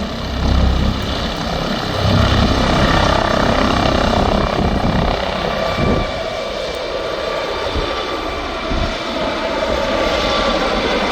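MD 902 Explorer police helicopter's twin turboshaft engines and rotor running at takeoff power. A heavy low rotor rumble dominates the first five seconds or so and then drops away, leaving a steady engine rush.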